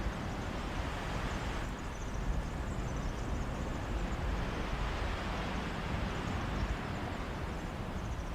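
Sea waves washing steadily on a beach, swelling a little about halfway through, with wind rumbling on the microphone.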